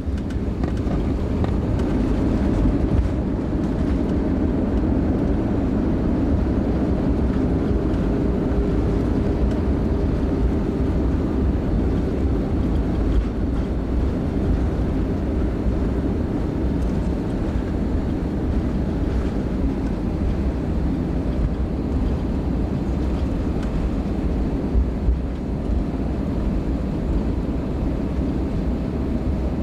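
Cabin noise of an Airbus A320-232 with IAE V2527-A5 engines during the landing rollout just after touchdown. It is a steady, loud, deep rumble of engine and runway noise heard from inside the cabin, with a faint steady hum from the engines, as the aircraft slows on the runway.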